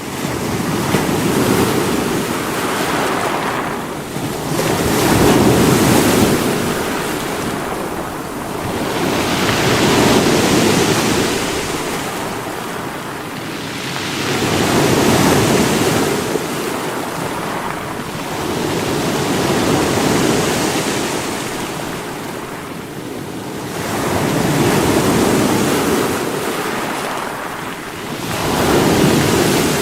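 Sea waves breaking against rocks, a steady wash of surf that swells and eases about every five seconds.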